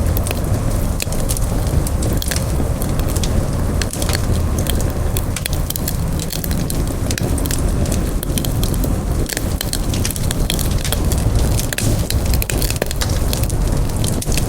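Wood campfire burning and crackling: frequent irregular sharp snaps and pops over a steady low rumble.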